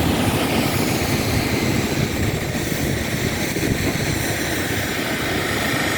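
A steady engine running, with a faint steady whine above it.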